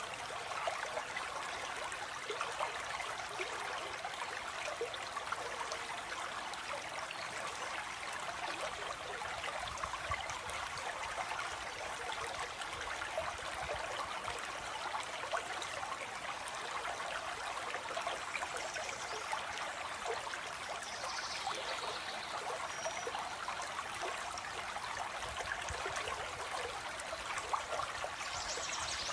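A stream of water flowing and trickling steadily, with a few faint, high bird calls in the last third.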